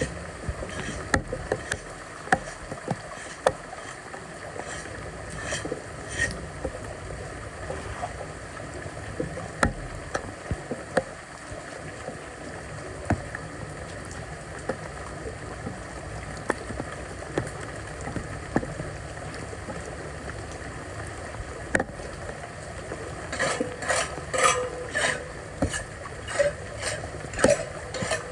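Floodwater sloshing and splashing with scattered knocks and scrapes as debris is cleared from a clogged street drain, turning into a busier run of clatter in the last few seconds.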